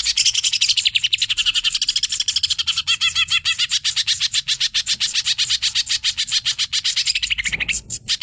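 Cucak ijo (green leafbird) singing a fast, unbroken run of sharp chirping notes, about nine a second, as in a bird-training recording of a highly wound-up singer.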